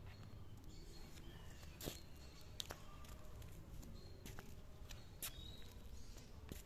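Zebra finches giving short, faint high calls now and then, with a handful of sharp clicks scattered among them.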